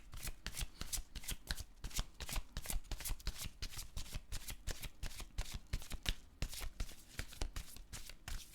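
A deck of tarot cards being shuffled by hand: a fast, steady run of short card-on-card slaps, several a second.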